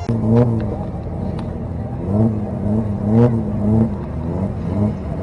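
A car engine revved in short repeated throttle blips, its pitch rising and falling again and again.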